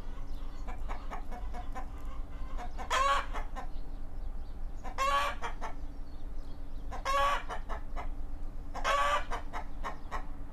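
Chickens calling: a loud, short call about every two seconds, four in all, with softer clucking between them. A steady low hum runs underneath.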